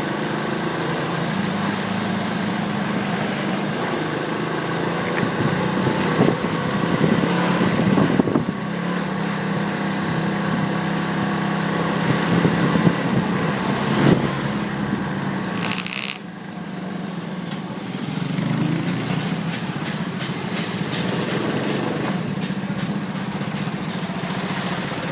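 Motorcycle engine running under way, heard from a handlebar-mounted phone with road and traffic noise around it. It dips briefly about sixteen seconds in, then picks up again.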